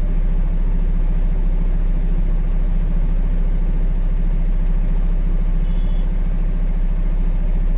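Dump truck's diesel engine idling steadily, a low rumble heard from inside the cab.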